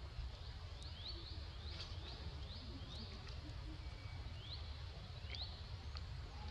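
A small bird calling in short, high, rising chirps in irregular runs, with a pause about midway. A steady low rumble runs underneath.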